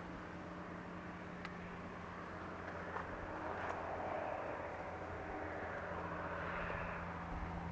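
A steady low engine hum with a noisy haze over it that swells a little in the middle, and a few faint clicks.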